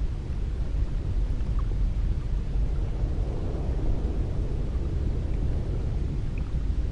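Cold wind blowing as a steady low rumble, swelling a little about halfway through.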